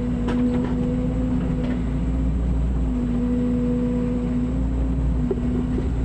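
Mini excavator's diesel engine running steadily at a constant speed, with a few short knocks in the first couple of seconds.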